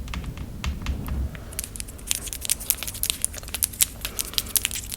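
Close-miked ASMR trigger sounds: a low handling rumble, then from about a second and a half in a dense run of crisp little clicks and crinkles right on the microphone.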